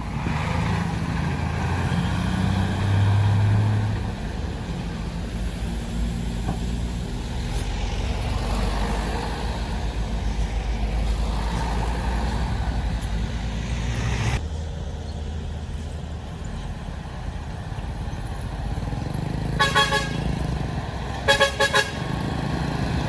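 Road traffic with heavy truck engines running steadily, and a vehicle horn tooting in two quick groups of short blasts near the end.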